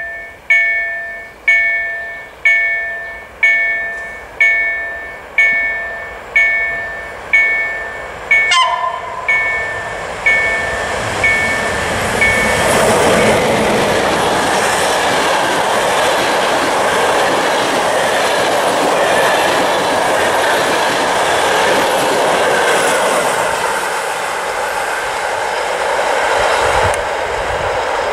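A warning bell rings in evenly spaced strikes about once a second, each dying away, for the first eight seconds or so. It is then covered by a passenger train passing close by, its wheels running steadily on the rails.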